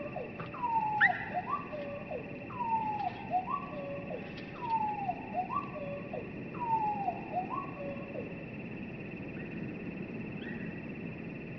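Northern cardinal song slowed down, so it sounds low and drawn out. There are four long falling whistles, each followed by a couple of short upward-then-falling notes, about every two seconds, and the song stops about eight seconds in.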